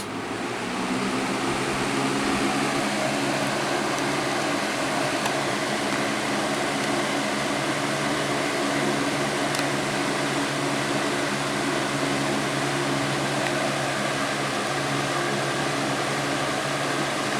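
Lasko 20-inch box fan (model 3723) running on medium speed: a steady rush of air over a low motor hum. The sound builds over the first couple of seconds as the blades come up to medium speed, then holds steady.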